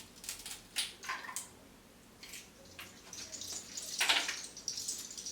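A raw egg being broken and emptied into water: scattered small clicks and taps, and a short wet splash about four seconds in, the loudest sound.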